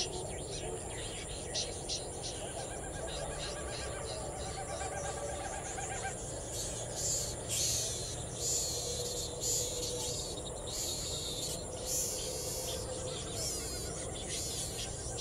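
Birds calling: repeated short, high chirps and calls, busier and louder through the middle, over a steady high-pitched hum.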